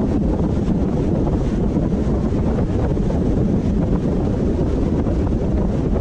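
A car driving on the road: a steady, low rumble of tyre and wind noise that never lets up.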